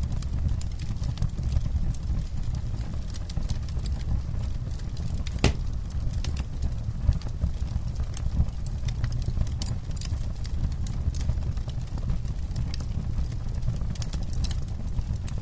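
Campfire burning, the wood crackling with many small irregular pops and one sharper crack about five and a half seconds in, over a steady low rumble.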